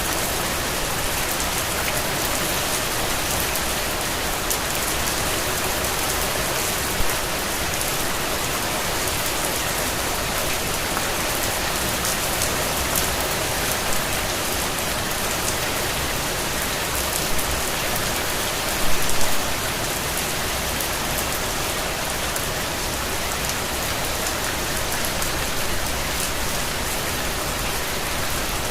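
Steady rain falling, with the fine patter of drops hitting a surface and a few slightly louder drop impacts about 7, 17 and 19 seconds in.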